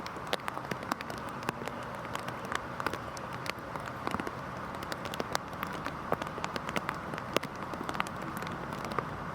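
Heavy rain falling steadily, a constant hiss broken by many sharp, irregular drop impacts.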